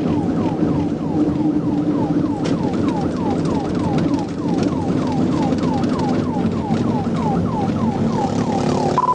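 Police car siren on a fast yelp, about three falling sweeps a second, over the patrol car's engine and road noise during a high-speed pursuit.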